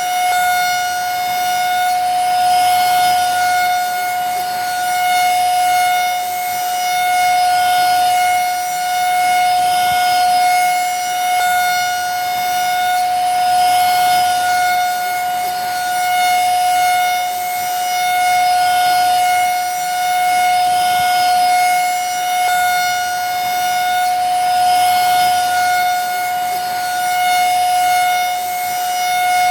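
Vacuum cleaner motor running steadily: a constant high whine over a rushing hiss, swelling slightly about every two seconds.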